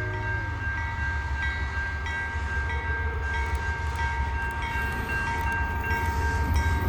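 A train running with a steady low rumble under a constant high whine.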